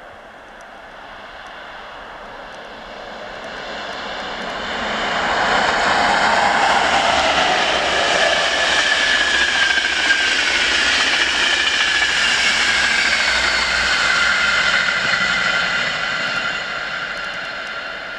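Electric passenger train passing at high speed. Its rushing wheel and air noise builds as it approaches, is loudest for several seconds with tones that fall in pitch as it goes by, and fades near the end.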